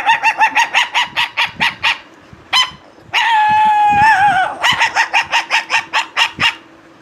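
A man imitating a puppy with his voice: a quick run of high yips, about six a second, then a long wavering whine that drops in pitch at its end about three seconds in, then another run of yips.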